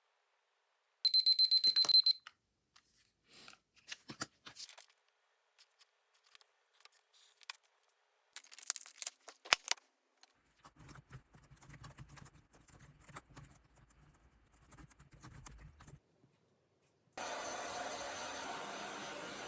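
An electronic alarm beeping in rapid pulses for about a second, followed by scattered clicks, rustling and handling noises. Near the end a steady rushing noise starts.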